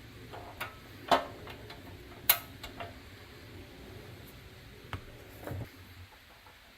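Several separate sharp clicks and knocks from hard objects being handled, the two loudest about one and two seconds in, with fainter taps after.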